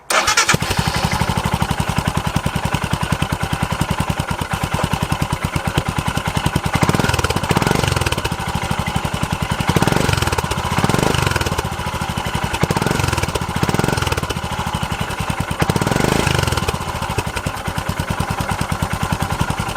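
Royal Enfield Himalayan's single-cylinder engine starts at once and idles with an even, muted thud through a newly fitted Lextek aftermarket end can with its baffle left in. In the middle it is blipped repeatedly, rising and falling with each blip, then settles back to idle.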